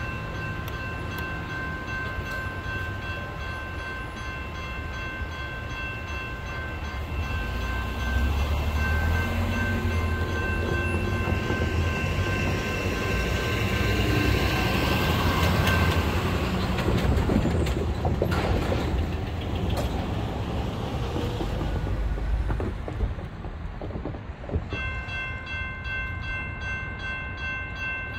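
Grade crossing warning bell ringing while a train rolls through the crossing with a low rumble that is loudest in the middle. The bell drops out about halfway through and starts ringing again near the end.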